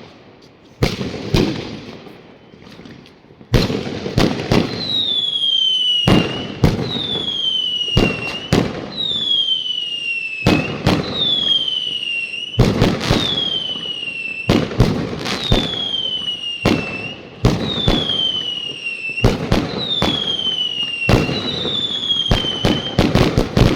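Fireworks going off in rapid runs of sharp bangs. After a few scattered bangs they thicken, with a whistle falling in pitch repeating about every two seconds.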